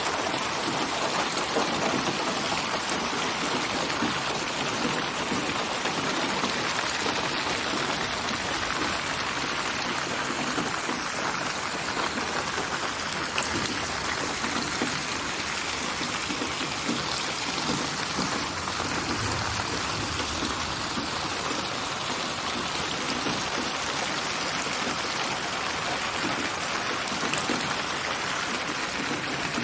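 Steady rain falling, a dense even hiss of many small drops pattering on a surface.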